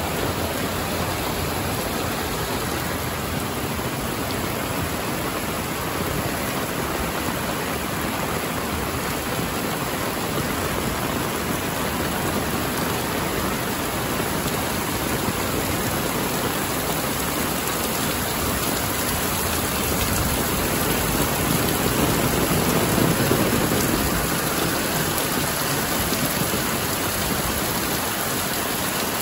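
Heavy rain falling steadily, with a louder swell a few seconds long about three-quarters of the way through.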